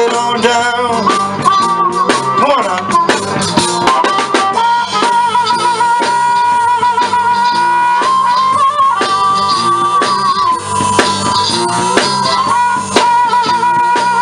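Live blues band playing an instrumental break: a harmonica holds long, wavering, bending notes over guitar and drums keeping a steady beat.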